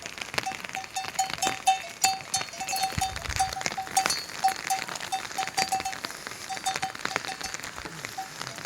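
Rain falling, with many sharp drop-like taps over a steady hiss. A short, high chirp repeats irregularly several times a second underneath.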